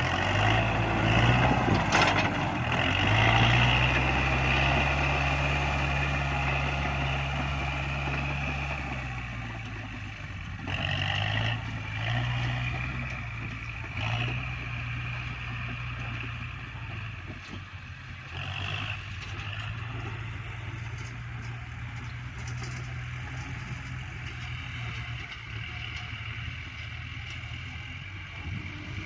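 Kubota tractor's diesel engine working while pushing soil: its pitch rises about three seconds in and holds high for several seconds, drops back, rises briefly twice more, then runs steadily.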